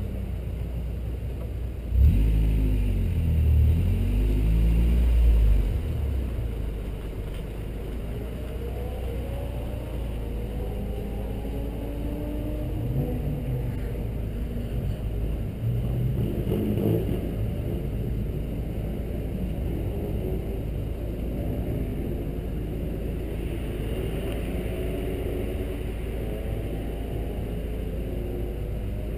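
Honda Integra DC2 engine, loudest about two to six seconds in as the car slows, then running steadily at low revs with engine pitch now and then rising and falling.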